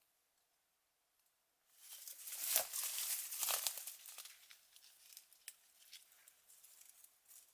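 Rustling and crinkling of dry leaves and woodland undergrowth, with scattered sharp crackles of twigs. It starts after a second and a half of near silence, is loudest a little later, then thins out to occasional crackles.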